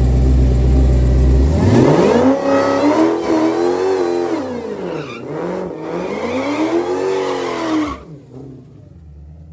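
High-horsepower drag car launching down the strip. It sits at a low idle rumble, then about a second and a half in the engine revs hard and its pitch climbs, drops and climbs again several times as it shifts up through the gears. The sound cuts off suddenly near the end.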